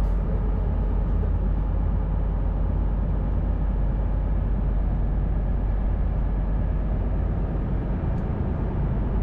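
Sightseeing boat's engine running, a low, even rumble heard on board.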